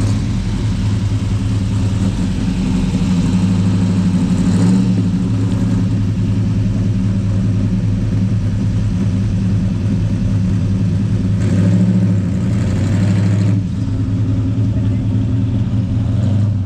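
Car engine running steadily at a low idle-like drone, with louder swells about four seconds in and again around twelve seconds, as of cars moving past.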